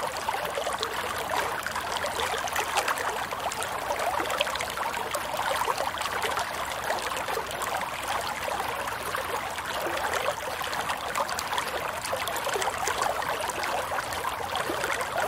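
Running water: a shallow stream or channel flowing and trickling steadily, with fine babbling and splashing.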